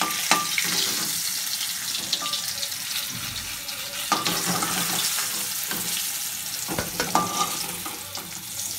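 Whole bitter gourds sizzling steadily as they fry in oil in a kadhai, with a metal spatula scraping and clicking against the pan a few times as they are turned and lifted out.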